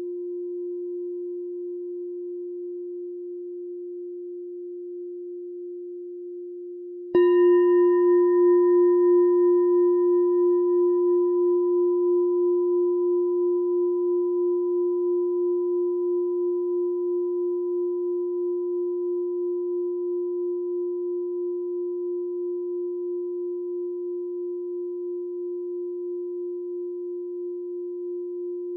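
Meditation bell struck once about seven seconds in, ringing with a steady low tone and fainter higher overtones that fade slowly with a gentle wavering. Before the strike, the previous stroke's ring is still dying away.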